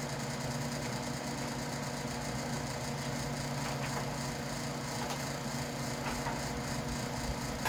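Electric fan running with a steady, somewhat noisy hum, with a few faint clicks from handling parts.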